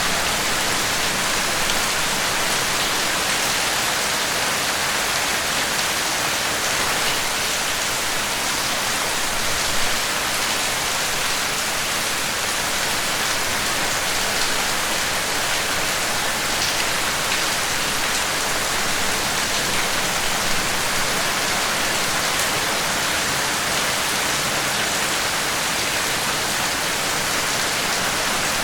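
Steady, dense rainfall, an even hiss of raindrops falling.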